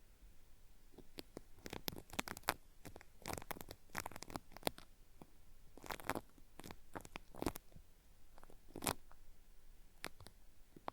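Cotton swab working in the ear of a binaural microphone for ASMR ear cleaning, giving a crackly, peeling 'paripari' sound in irregular clusters of short scratchy strokes with brief pauses between them.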